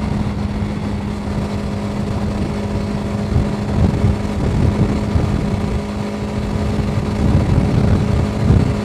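TVS Apache RTX 300's single-cylinder engine running steadily at a highway cruise of about 100 km/h, a constant, unchanging drone with heavy engine noise.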